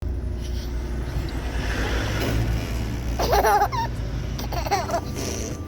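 Baby giggling in two short bursts, about three seconds in and again about a second later, over a steady low rumble.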